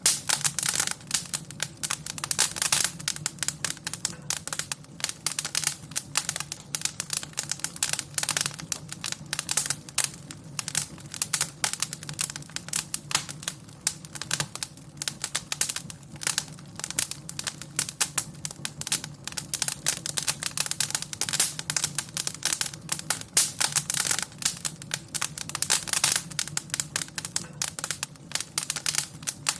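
Wood fire crackling in a fireplace: dense, irregular pops and snaps over a low, steady rumble of burning.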